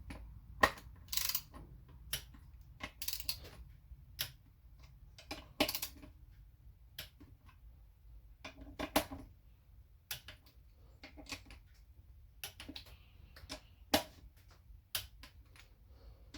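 Torque wrench ratcheting and clicking as the valve body bolts on a Honda automatic transmission are tightened to 9 ft-lb. It makes a series of sharp, irregular clicks, some in quick clusters.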